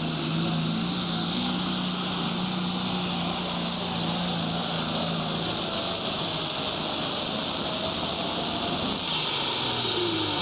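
Turbocharged diesel super stock pulling tractor running hard under full load down the track, with a steady high whine over the engine noise. About nine seconds in the whine falls away and the engine eases off.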